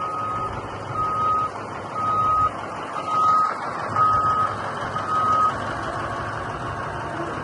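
A Cat 777D haul truck's backup alarm beeping steadily about once a second, six half-second beeps that stop about five and a half seconds in, over the low rumble of its diesel engine running.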